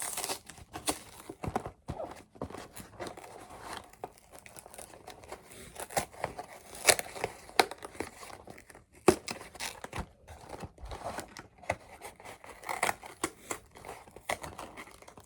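Cardboard snack-bar box being torn open by hand, its tab resisting, with paper tearing and packaging crinkling in irregular sharp crackles and rustles.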